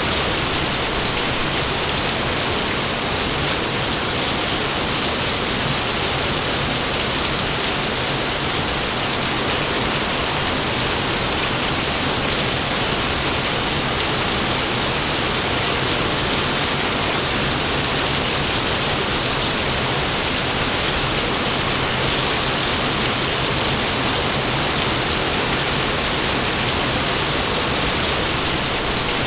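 Heavy rain pouring down steadily, a dense, even hiss of drops with no thunder claps.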